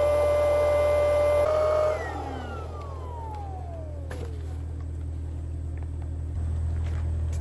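A vehicle running with a low steady hum. A steady whine above it drops away about two seconds in and slides down in pitch as it fades.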